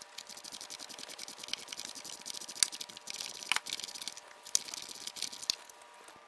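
Socket ratchet clicking in rapid runs as it turns a thread-chasing tap through a bolt hole, cleaning out rough threads, with a few sharper clicks along the way.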